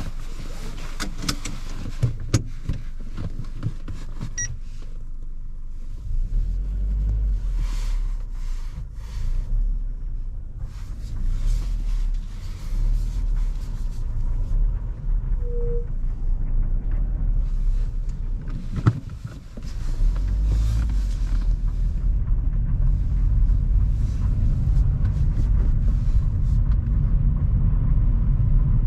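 A car pulling away and driving, with low engine and road rumble. A few clicks and knocks come in the first seconds. The rumble builds, dips briefly past the middle, then runs on stronger.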